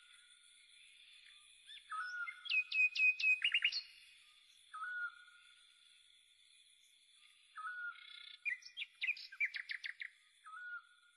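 Birds calling: one repeats a short whistled note about every three seconds, and another gives two quick runs of about six sharp notes each, over a faint steady high tone.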